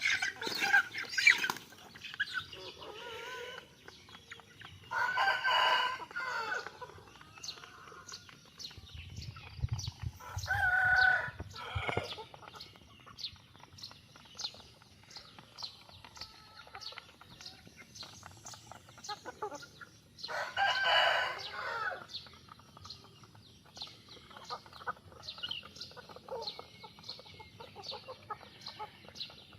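Newly hatched chicks peeping constantly, and a rooster crowing twice, about five seconds in and again about twenty seconds in.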